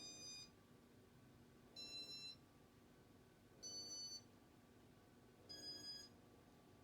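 Short electronic beeping chime, about half a second long, repeating four times roughly every two seconds, over a faint steady hum.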